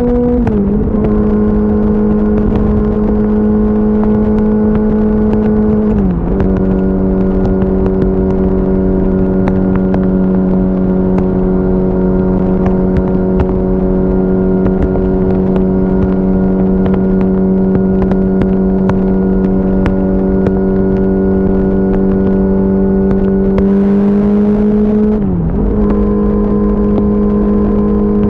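2004 Yamaha R6's 600 cc inline-four engine running at a steady highway cruise, under a steady rush of wind noise. The engine note dips briefly twice early on and settles slightly lower. Near the end it rises, dips sharply and settles slightly higher, as with throttle changes or gear shifts.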